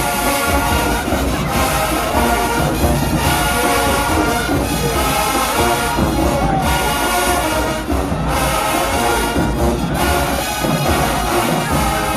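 HBCU marching band playing loudly: brass horns over drums, with a couple of brief breaks in the middle.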